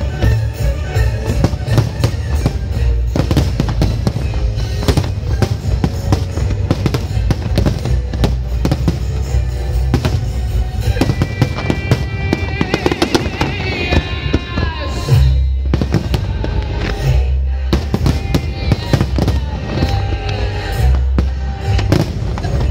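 A fireworks display: aerial shells bursting and crackling in a rapid, dense run of bangs, with the show's synchronised music playing loudly alongside.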